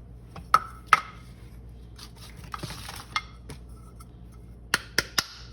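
Sharp clicks and knocks, several with a short ring, from a small coffee grinder being opened and handled after grinding, with a brief hiss of rustling in the middle.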